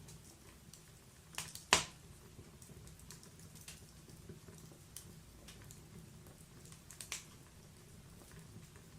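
Wood fire in a log-burning fireplace crackling: scattered sharp snaps and pops over a faint steady low sound, the loudest pop coming just before two seconds in.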